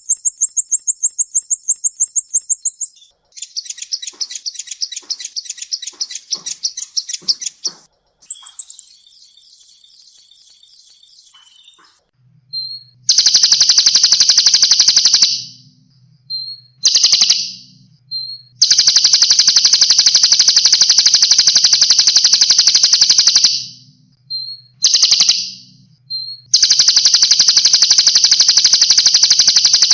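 Songbird training song of dense, rapid-fire trills: several very fast, high-pitched trills follow one another, changing style in the first dozen seconds, then long buzzy trills of several seconds each broken by short pauses and brief single notes.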